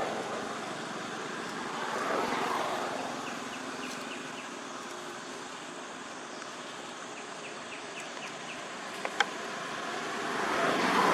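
Passing vehicles, a noisy rush that swells and fades about two seconds in and again near the end, over a steady outdoor hum. Faint short high chirps repeat in runs, and there is one sharp click about nine seconds in.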